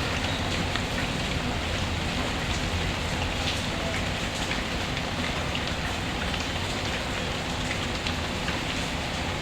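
Steady rain falling on a surface, an even hiss with scattered small sharp ticks throughout.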